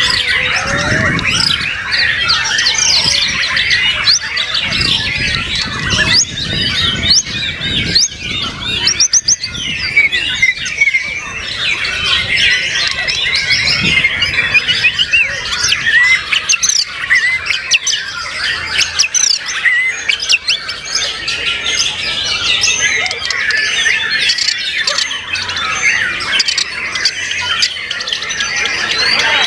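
Several white-rumped shamas (murai batu) singing at once: a dense, loud tangle of overlapping whistles, rapid chatters and sweeping notes with no pause.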